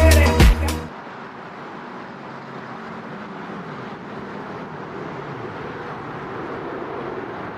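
Music cuts off about a second in, giving way to the steady rushing noise of a Boeing 777 jet airliner landing, slowly growing a little louder.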